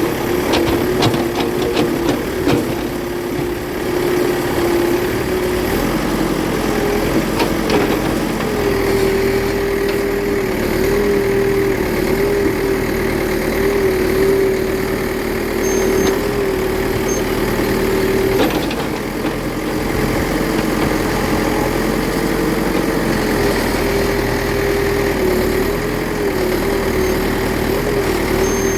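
Remote-control toy construction vehicle's motor running steadily: a single hum that wavers slightly in pitch, with a few clicks in the first few seconds and another about two-thirds of the way through.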